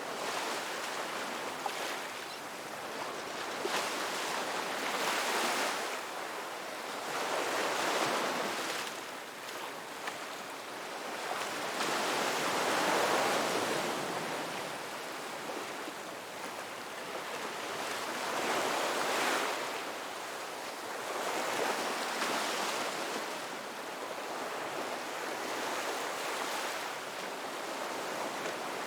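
Ocean waves washing onto a beach, the surf swelling and easing every few seconds in an unbroken rush.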